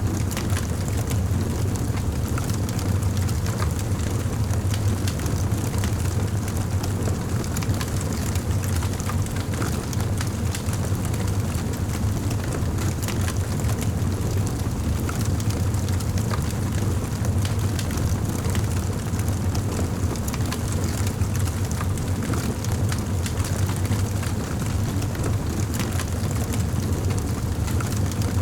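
Fireplace fire crackling, with scattered small pops over a steady low rumble.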